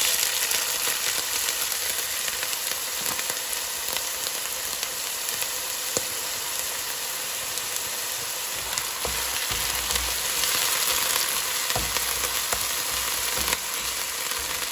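Chopped onion sizzling steadily in hot oil in a frying pan, with scattered small crackles. A spatula stirs it in the last seconds.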